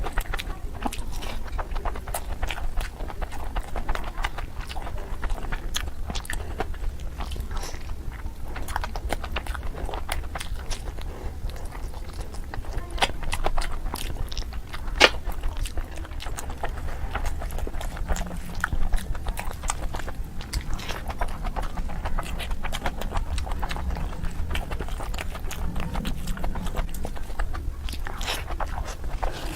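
Close-miked chewing and biting of a person eating basmati rice pulao and mutton curry: a continuous stream of small sharp mouth clicks, a few louder ones standing out.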